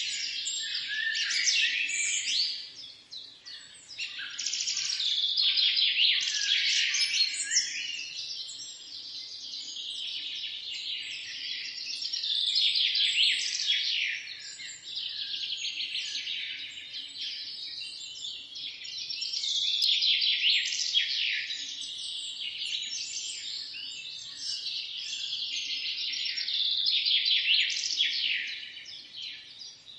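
Many small birds chirping and singing at once, a dense chorus of rapid high chirps that swells and eases every few seconds.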